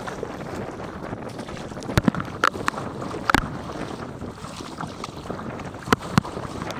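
Wind rushing over the camera microphone during stand-up paddling, with several sharp water slaps and knocks from the paddle and chop against the inflatable paddleboard, clustered about two to three seconds in and again near the end.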